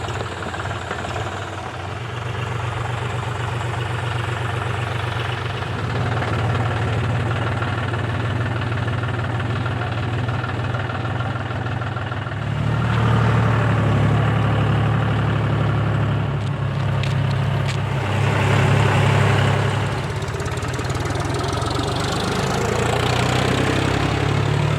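John Deere 5050D tractor's three-cylinder diesel engine running steadily, becoming louder about halfway through.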